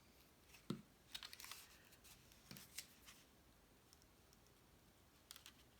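Faint handling of cardstock pieces on a craft table: light paper rustles and small taps, with a soft knock just under a second in and a few more clicks near the end.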